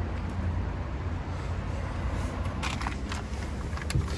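Steady low rumble of a car engine running, with a few faint clicks near the end.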